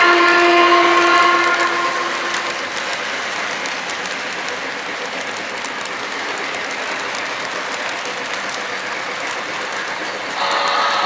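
Lionel LionChief Pere Marquette 1225 model steam locomotive's onboard sound system blowing its steam whistle for about two and a half seconds, then steady running sounds of the engine on the track. Another whistle starts near the end.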